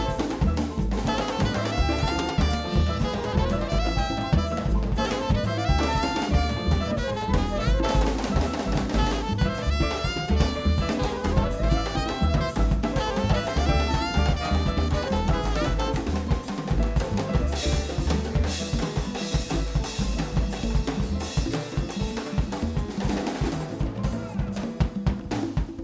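Latin jazz band playing live, the drum kit prominent with snare, bass drum and cymbals under a moving melodic line.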